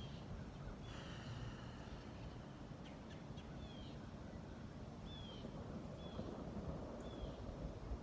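Birds calling: short, downward-slurred whistled notes repeated about once a second over a steady low background rumble. A run of faint high ticks, about three a second, comes in the middle.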